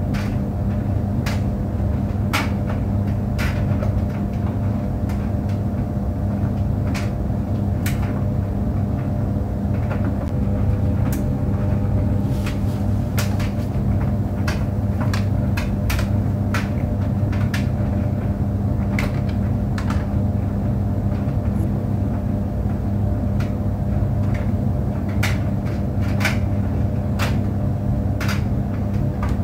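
Tumble dryer running: a steady low hum and rumble, with irregular light knocks every second or two as it turns.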